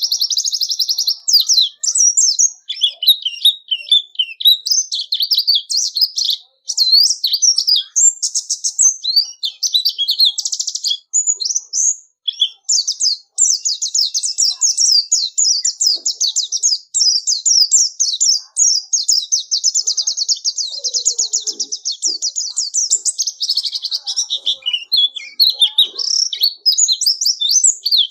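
A white-eye (pleci) singing a high-pitched, continuous warbling song of rapid chirps and long fast trills, barely pausing.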